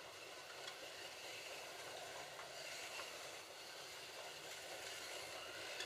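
Slot.it Ford GT40 slot cars running on the track, a faint steady whirring of their electric motors and guides in the slot.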